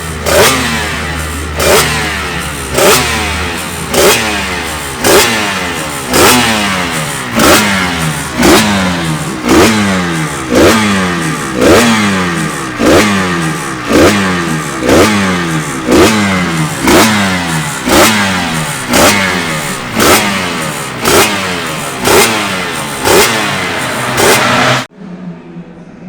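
Two-stroke racing motorcycle engine being revved over and over, its throttle blipped about once a second, each rev rising sharply and then falling away. It cuts off suddenly near the end.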